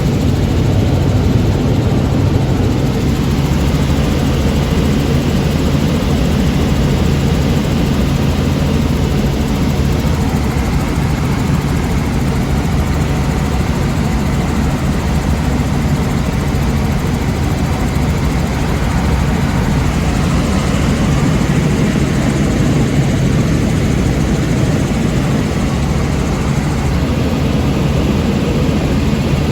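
Helicopter in flight, heard from on board: a loud, steady drone of engine and rotor that does not change.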